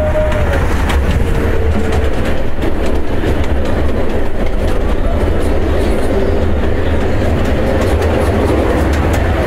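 Small passenger ride-on train rolling through a tunnel: a steady, loud rumble and rattle of its wheels on the rails.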